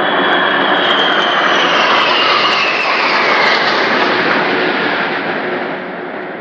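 Military aircraft flying past overhead: a loud engine noise with a high whine that falls in pitch as it passes, easing off near the end.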